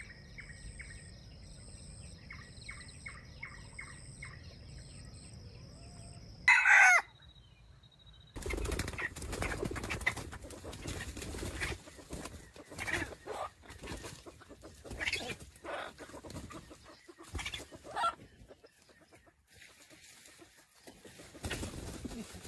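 Wild junglefowl: a rooster gives one short, loud crow, then there is a long stretch of wing flapping and scuffling with scattered clucks. Faint clucks and a steady high insect whine come before the crow.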